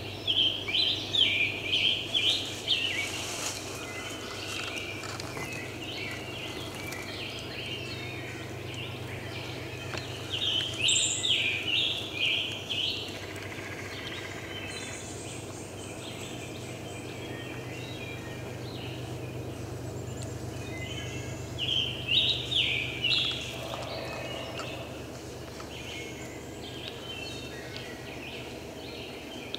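Bird calls: three bursts of rapid, repeated high notes, each lasting about two to three seconds and coming about ten seconds apart.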